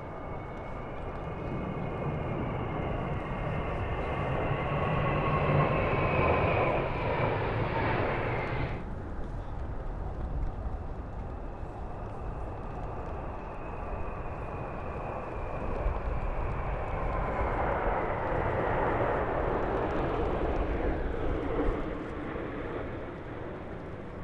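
Military jet aircraft flying over in two passes. Each pass is a swell of engine noise with a whine that falls in pitch as it goes by. The first is loudest about six seconds in, and its high whine cuts off suddenly near nine seconds; the second swells up around eighteen to twenty seconds in.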